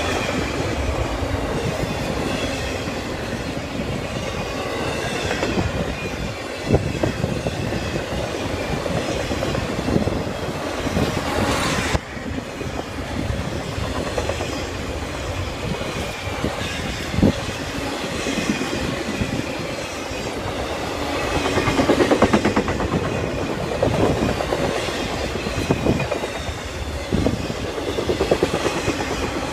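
Intermodal freight train of highway trailers on flatcars rolling steadily past. Its wheels make a continuous rumble on the rails, broken by irregular sharp clacks.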